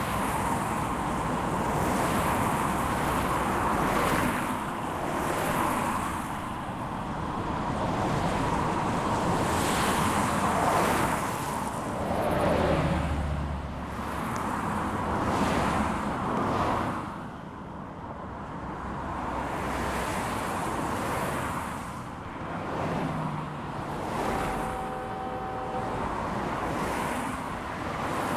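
Wind buffeting the microphone over the steady rumble of a long freight train rolling past. A brief pitched tone sounds near the end.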